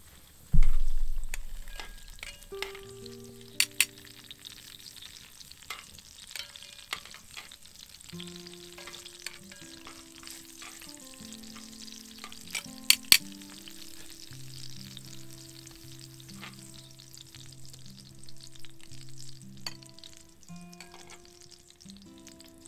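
Food frying and sizzling in a cast iron pot, with stirring and a few sharp clinks, about four seconds in and twice near thirteen seconds. A deep boom sounds about half a second in and fades over a couple of seconds. Soft background music with held notes runs underneath.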